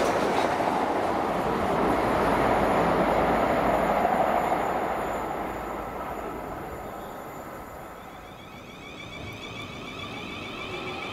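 Passenger train running along the platform on the rails, a loud rush of wheel and rail noise that dies away over the second half as the train leaves.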